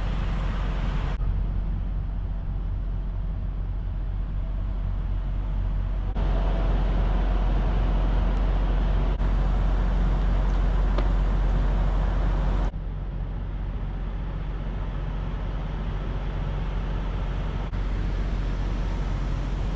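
Car driving along a road, steady engine and tyre rumble heard from inside the cabin. The sound jumps abruptly in level and tone several times, at edits between clips.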